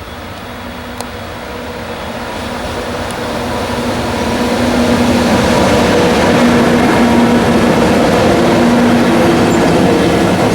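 Freight train hauled by two EF64 electric locomotives coming closer, growing louder over about five seconds and then holding steady, with a hum of several steady tones from the locomotives.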